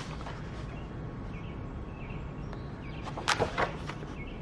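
Paper notebook pages being handled and turned: two short sharp rustles a little after three seconds, over a steady low room hum.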